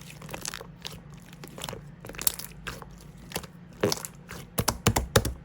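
Clear slime being squished and pressed by hand, making irregular sharp clicks and pops, with several in quick succession near the end.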